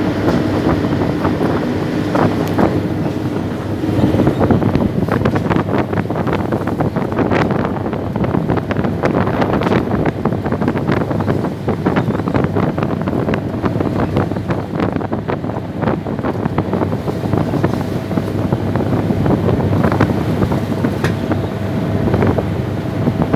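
Wind buffeting the microphone over the steady running of a boat's engine, with faint engine tones clearest in the first few seconds.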